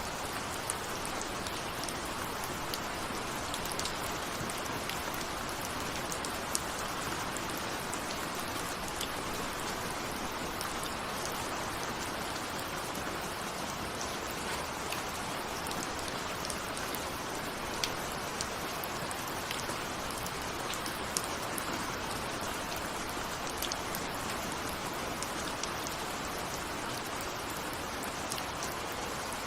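Steady rain with a constant hiss and many separate raindrop taps, described as raindrops falling on a window.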